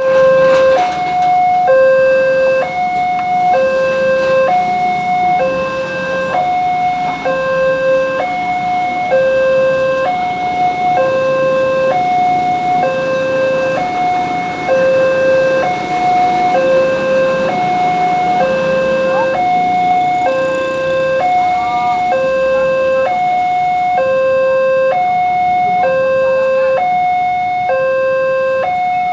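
Railway level-crossing warning alarm sounding its two-tone electronic signal, a high note and a low note alternating about once a second without a break.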